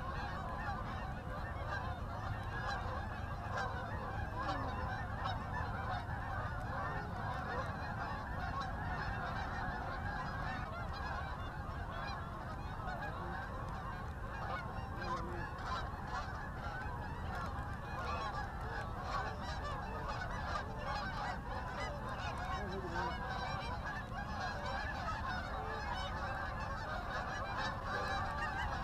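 A large flock of Canada geese honking, many birds calling over one another without a break.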